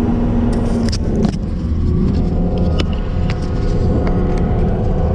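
John Deere 333G skid steer's diesel engine running steadily, with a few sharp clicks and knocks about a second in and near the middle.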